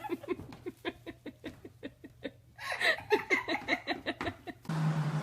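A person laughing hard in quick repeated pulses, about five a second, pausing briefly about halfway through and then laughing again. Near the end the sound cuts abruptly to a steady low hum.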